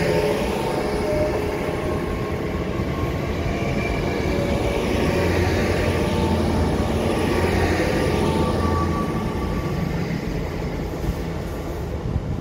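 LNER Azuma bi-mode train running past on diesel power: a steady engine hum mixed with wheel-on-rail noise, beginning to fade near the end as the train moves away.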